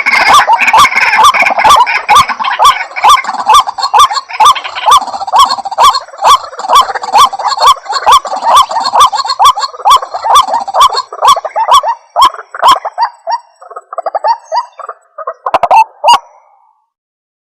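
White-breasted waterhen calling: a fast, even series of loud, repeated croaking notes, about two or three a second. After about twelve seconds the series breaks up into softer, irregular notes, then stops shortly before the end.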